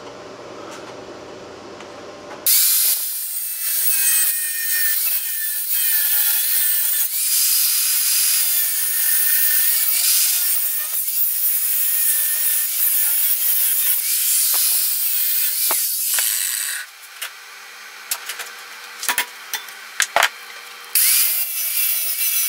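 A power tool cutting through steel angle iron to notch out a 45-degree V, with a loud, steady hiss and a motor whine that wavers under load. The cutting stops a little past halfway, a few sharp clicks and knocks follow, and the cutting starts again near the end.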